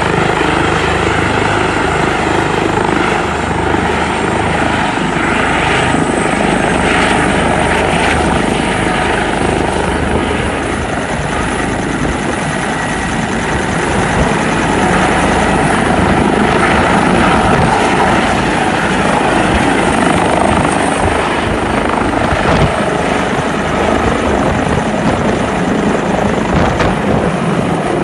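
Rescue helicopter running loud and steady, its rotor and turbine engines making a dense roar with a thin high turbine whine that rises a little a few seconds in.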